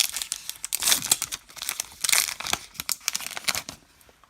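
Paper-foil baseball card pack wrapper being torn open and crinkled, a run of sharp crackles that dies away near the end.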